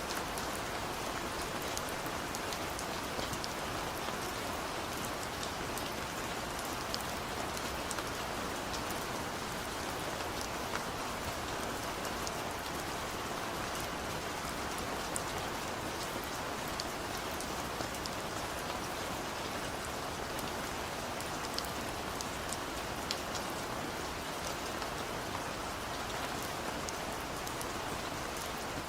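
Steady rain falling on a surface, an even hiss with scattered sharp drop ticks over it.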